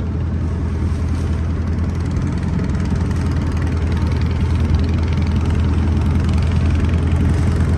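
Motorboat engine running steadily while the boat is under way, a low steady hum that grows slightly louder toward the end.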